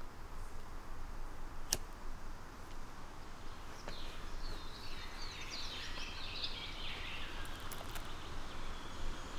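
Outdoor ambience with a steady low rumble. A songbird sings a run of quick high chirps from about four seconds in until past seven seconds, and a single sharp click comes near two seconds in.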